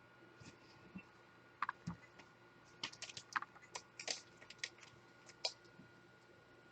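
Faint, irregular light clicks and taps, a couple of dozen short ones scattered through the few seconds, with a small cluster around the middle.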